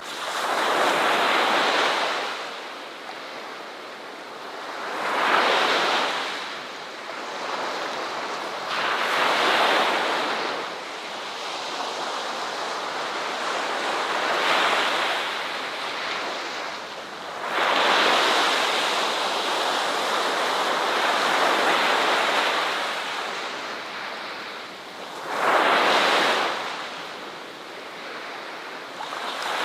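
Ocean waves breaking and washing on a shore, each wave a swelling rush of surf that fades before the next, about every three to four seconds, with a longer sustained wash in the middle.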